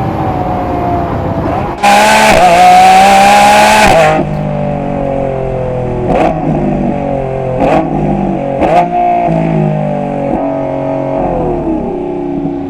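Lamborghini Revuelto's 6.5-litre hybrid V12 through a QuickSilver stainless-steel cat-back exhaust, driven on the road. It gives a loud two-second burst of hard acceleration near the start, then eases off with the revs slowly falling, broken by three sharp cracks as the revs jump up.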